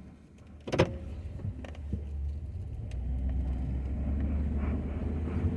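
Ford F-250 pickup engine running with a steady low rumble that grows louder about three seconds in, with a single sharp thump about a second in.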